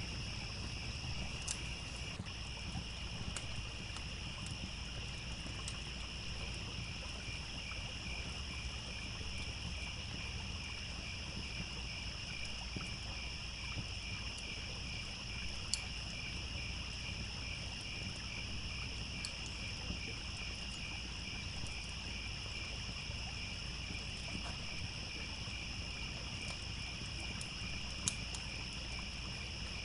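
Crickets chirping in a steady, rapidly pulsing chorus, over a low steady rush of running water. A few sharp pops from a crackling campfire break through, the loudest one just before the middle and one near the end.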